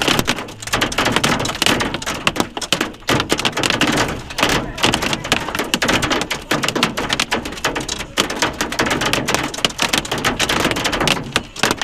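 Hail pelting the roof of a vehicle, heard from inside: a dense, loud, rapid clatter of hailstones striking, easing slightly near the end.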